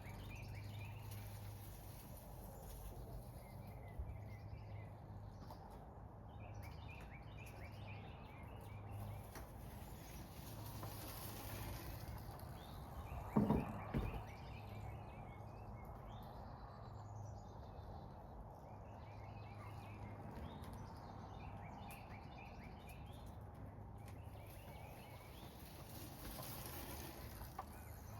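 Quiet outdoor ambience with small birds chirping repeatedly, over a faint steady low hum. A single short thump stands out about halfway through.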